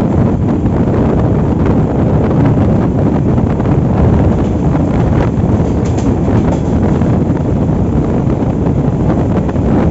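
Vasco da Gama–Kulem passenger train on the move, a steady loud rumble of the carriage on the rails, with wind buffeting the microphone.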